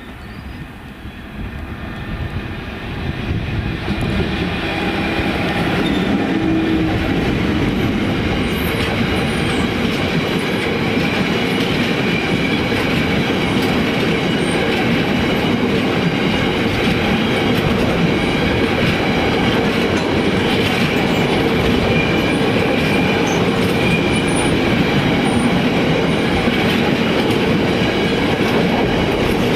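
Freight train passing: it grows louder over the first four seconds, then the train runs by steadily, with a faint high wheel squeal.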